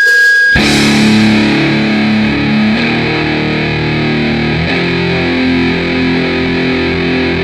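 Heavily distorted electric guitar playing a slow riff of held low notes. It breaks in about half a second in, cutting off a high steady tone.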